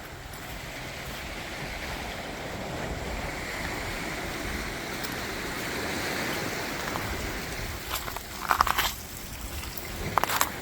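Mediterranean surf washing on the beach: a steady rush of breaking water that swells and then eases off, followed near the end by a few sharp, brief crackles.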